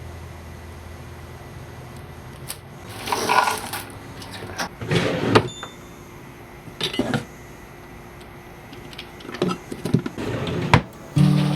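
Workshop sounds of hand tools and kart parts being handled: a handful of separate short clunks and rattles, a second or two apart.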